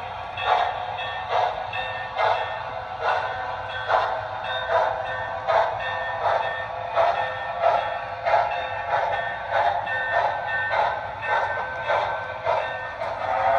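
Model steam locomotive sound system running on an O scale layout: rhythmic chuffing, a little more than one chuff a second, over steady tones.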